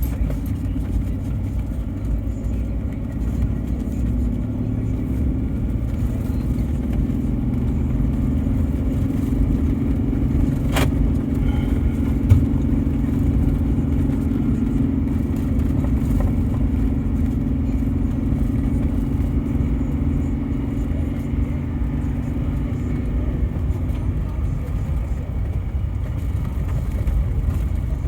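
Steady low rumble of a running engine, with a single sharp click about eleven seconds in.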